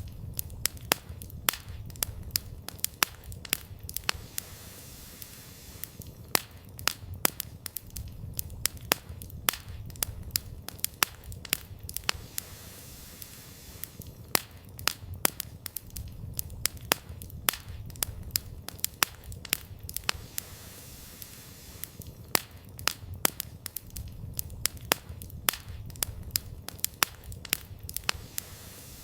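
Campfire of burning firewood crackling, with sharp irregular snaps and pops, sometimes several a second, over a low steady rumble.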